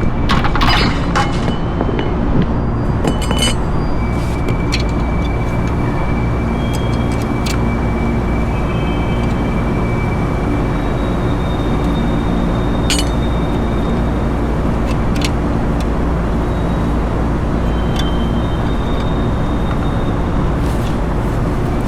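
Steady, loud machinery hum on a rooftop, with a few light metallic clicks and clinks of tools now and then.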